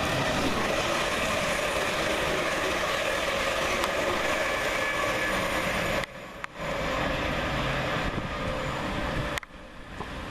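A pair of coupled Class 360 electric multiple units passing through at speed: a steady, loud rush of wheels and air with a faint whine, dipping briefly about six seconds in. The noise cuts off sharply near the end.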